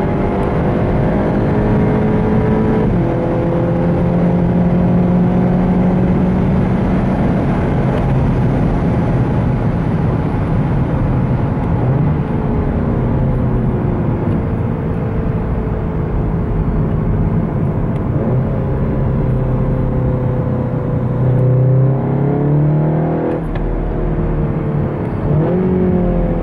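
SEAT Leon Cupra's turbocharged 2.0-litre four-cylinder under full-throttle acceleration. The engine note climbs slowly through each gear and drops back at each upshift, several times, with quicker rises and falls in pitch near the end.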